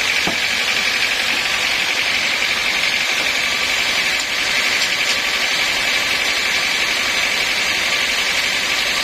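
Sawmill machinery running steadily, a constant mechanical noise with a high, even whine.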